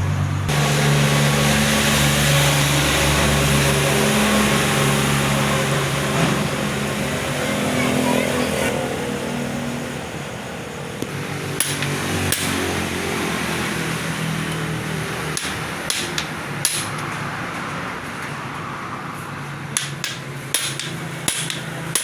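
A small single-cylinder motorcycle engine runs, with its pitch shifting in steps. In the second half it is quieter, and a series of sharp knocks cuts through.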